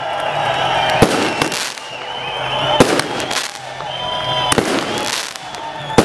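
Aerial fireworks display: shells bursting with sharp bangs every second or so, with a continuous crackling and whistling between the bursts.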